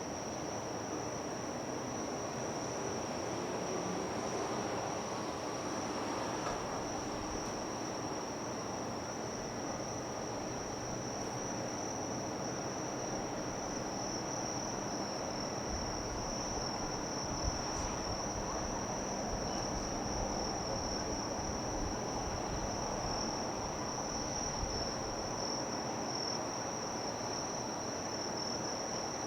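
Insects trilling in one steady, unbroken high-pitched note over a low, even wash of background noise, with a single short tick a little past halfway.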